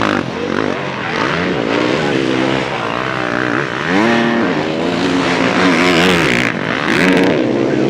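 Several motocross bikes revving hard, their engine notes climbing and dropping again and again as they accelerate and shift, overlapping one another.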